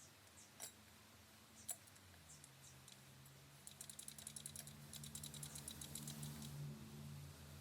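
Faint, light clicks as transmission parts are handled, then a quick run of rapid ticking for about three seconds, over a low steady hum.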